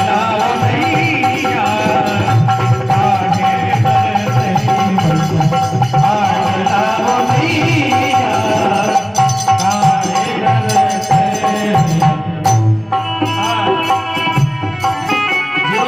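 Haryanvi ragini bhajan music: a melody over a long held note, with hand-drum accompaniment. The held note breaks off about twelve seconds in, and a new set of steady notes comes in.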